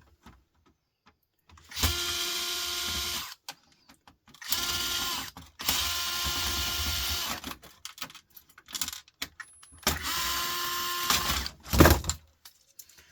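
Electric screwdriver motor spinning in three runs of one to three seconds each, its pitch rising briefly as it spins up, as screws are driven out of the CD changer. Small clicks of parts come between runs, and a sharp knock, the loudest sound, comes near the end.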